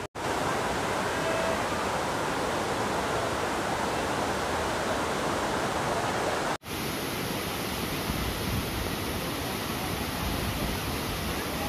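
Waterfall rushing with a steady, even roar of falling water, broken off for an instant about six and a half seconds in.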